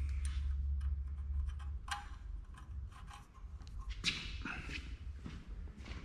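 Light clicks and taps of nuts being tried and threaded onto a freshly turned bolt, with a low hum that stops about two seconds in.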